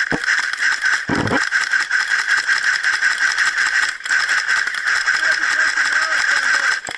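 Several airsoft guns firing rapidly together: a dense, continuous rattle of shots over a steady high whine, with a brief lull about four seconds in.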